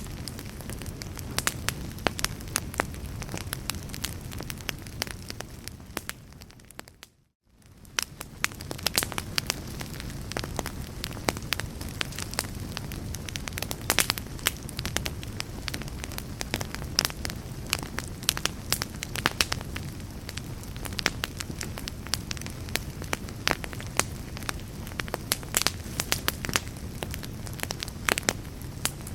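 Wood fire burning in a fireplace: a steady stream of sharp crackles and pops from the burning logs over a low, even rumble of the flames. About seven seconds in, the sound briefly fades to near silence and then comes back.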